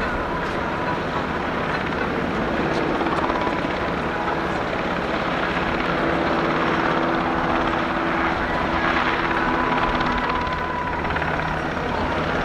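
UH-60J Black Hawk helicopter flying a demonstration, its twin-turbine engines and rotor making a steady low hum under a rushing noise that grows a little louder midway.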